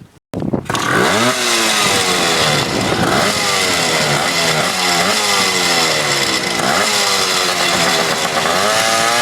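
Two-stroke engine of a 1974 Suzuki 185 dirt bike, fitted with a 250 engine, revving hard during a burnout. It starts abruptly a moment in, and its pitch rises and falls several times as the throttle is worked.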